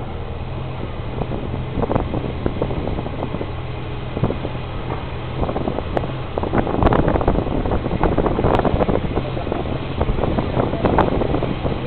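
A car engine running steadily at low revs while the car rolls slowly, with wind buffeting the microphone more heavily in the second half.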